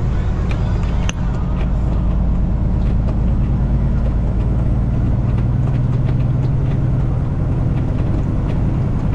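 Semi truck's diesel engine running under way, a steady low drone heard from inside the cab with the windows closed, with a sharp click about a second in.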